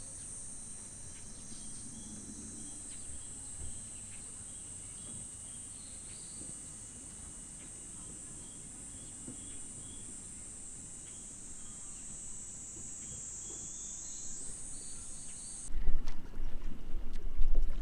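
Steady high-pitched chorus of insects, with faint repeated chirps beneath it. It cuts off abruptly near the end, giving way to a louder low rumble.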